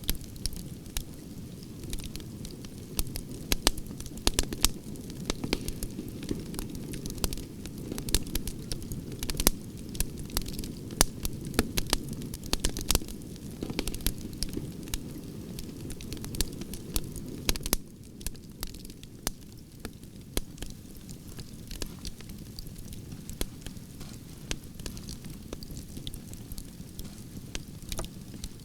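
Wood campfire of burning branches crackling, with irregular sharp pops and snaps over a steady low rumble of flames, the pops a little sparser in the second half.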